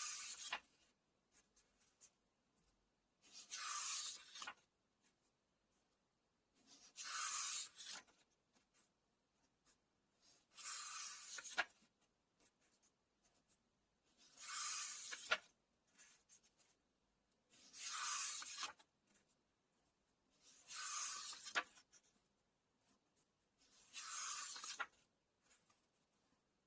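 Paper pages of a book being turned one at a time, a dry papery swish about every three and a half seconds, several of them ending in a light snap of the page.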